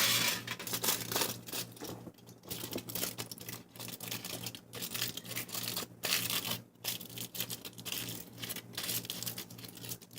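Aluminum foil crinkling and crackling in irregular spurts with short pauses as it is pressed and squeezed by hand around a fidget spinner.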